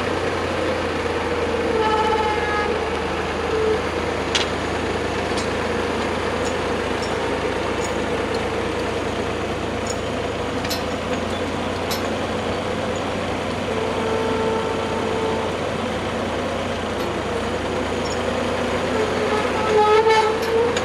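An engine running steadily at a constant speed, with a few sharp clicks or knocks over it.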